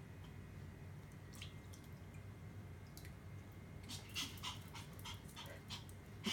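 Pomeranian playing in a shallow dog pool: light water splashes and taps, scattered at first, then a quick run of them from about four seconds in.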